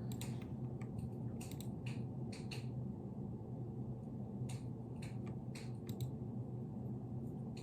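Scattered faint, irregular clicks and crackles over a low steady hum.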